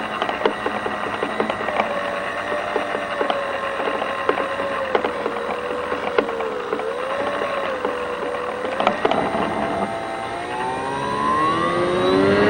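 Model airplane's motor and propeller running steadily in flight, with a slight waver in pitch midway and a rising whine near the end as the throttle comes up. Short irregular clicks run through it.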